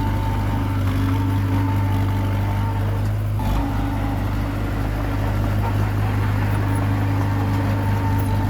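Komatsu D21P bulldozer's diesel engine running at a steady speed, with a slight shift in its note about three and a half seconds in.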